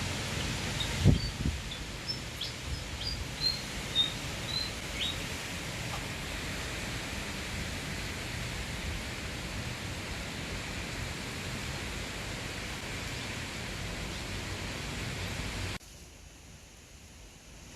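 Steady outdoor noise, with a sharp knock about a second in and a few short high bird chirps over the next few seconds. The noise drops suddenly near the end.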